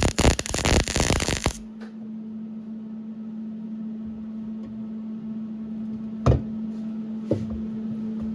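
MIG welder running a short weld on mild-steel exhaust pipe, a loud crackle that cuts off abruptly about a second and a half in. A steady low hum follows, with two light knocks near the end.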